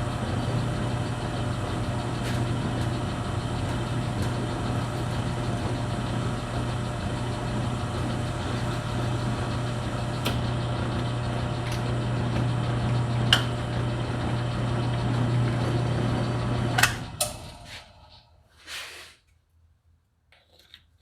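A motor running steadily with a constant low hum and a few sharp clicks, then shutting off about seventeen seconds in and dying away over a second or two.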